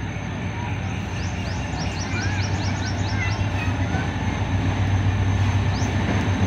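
Diesel-electric locomotive approaching along the platform, its engine's low steady drone growing louder as it comes closer. A quick run of short rising chirps sounds over it for a couple of seconds about a second in.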